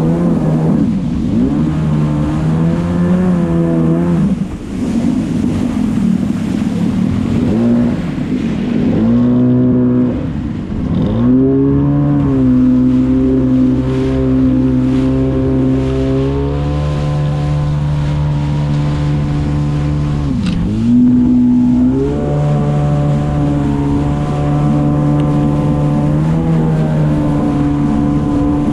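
Jet ski engine running under way, its pitch rising and falling with the throttle and dipping sharply a few times as the throttle is let off and opened again.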